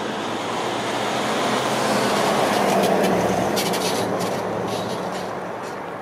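A Northern passenger train (CAF Civity multiple unit) approaching and passing on the main line. The running noise of wheels on rail with a low hum swells to its loudest about three seconds in, then eases off, with a few sharp clicks as it goes by.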